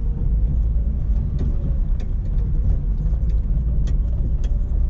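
BMW E36 on the move, heard from inside the cabin: a steady low rumble of engine and road noise with scattered light clicks and knocks.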